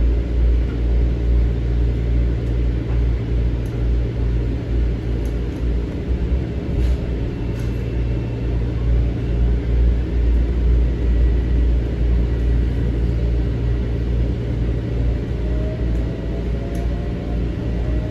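Interior of a Metro-North M7 electric train running between stations: a steady low rumble from the car, with a faint rising whine near the end.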